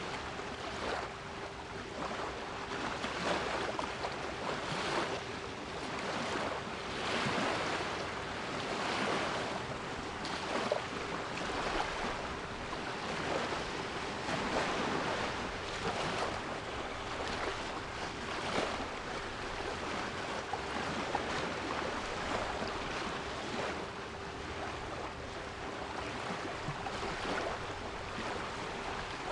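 Sea waves washing ashore, swelling in surges every second or two, with a steady 396 Hz pure tone held underneath.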